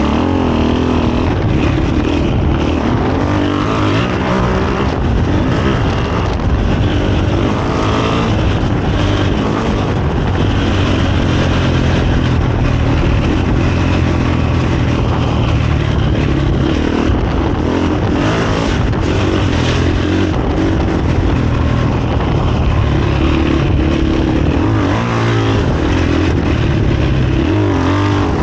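2023 KTM 500 EXC-F single-cylinder four-stroke dirt-bike engine running through a Graves aftermarket exhaust under way, its revs rising and falling with the throttle.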